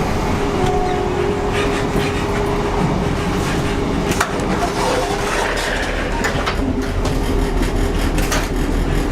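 Passenger train running: a steady rumble and hiss with a constant hum, broken by scattered short clicks and knocks.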